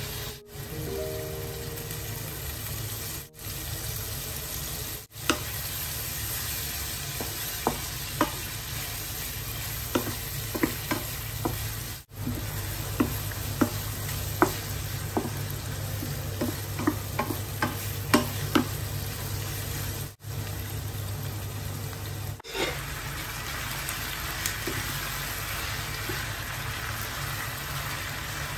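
Shrimp and sliced red onions sizzling in a ceramic-coated frying pan while a wooden spatula stirs them, its taps and scrapes on the pan giving a quick run of sharp clicks in the middle. In the last few seconds the sizzle turns brighter and hissier, with vegetables in the pan.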